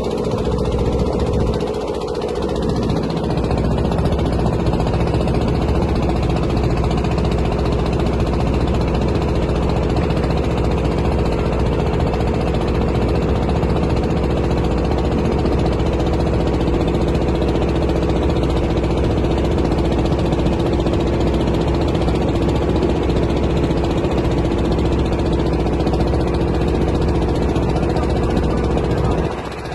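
A motorboat's engine runs steadily with a continuous chugging drone. It dips briefly near the end.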